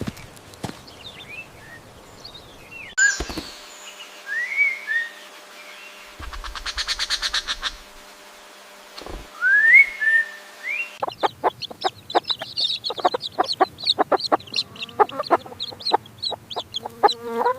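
Birds calling: a few short rising whistled notes, a fast trill, then more rising whistles. From about eleven seconds in, a dense run of rapid short clucking calls from chickens takes over.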